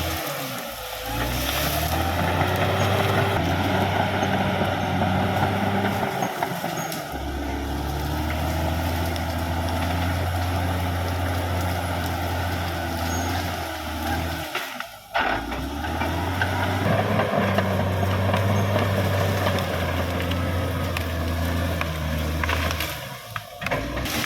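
Caterpillar D6R XL bulldozer's diesel engine running, a steady low drone with machine noise over it. The sound breaks off briefly about seven and fifteen seconds in and again near the end.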